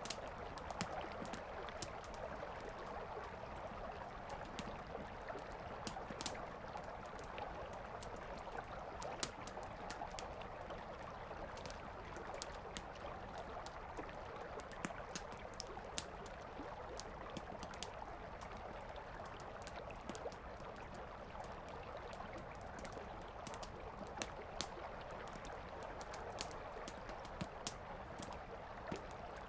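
Wood campfire crackling, with frequent sharp, irregular pops and snaps, over the steady rush of a flowing river.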